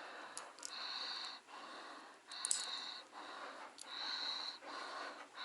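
Steady, regular breathing close to the microphone, in and out about every second and a half, with a thin wheezy whistle on every other breath.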